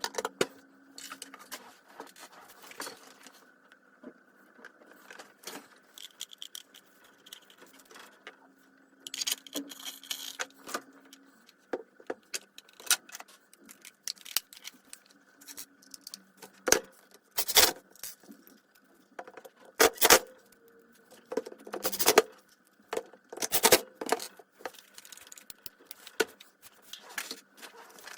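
Hand work on small metal parts: scattered clinks, taps and scrapes, with several sharper knocks in the second half.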